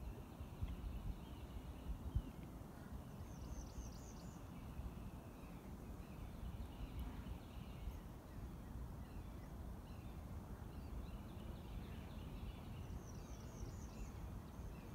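Faint bird calls over a low rumble: scattered chirps throughout, and a quick run of high notes about four seconds in and again near the end. A soft knock about two seconds in.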